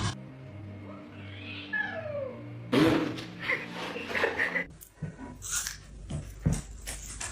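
A cat meowing: a falling meow about two seconds in, then a louder, rougher call lasting nearly two seconds, followed by a series of short knocks and taps.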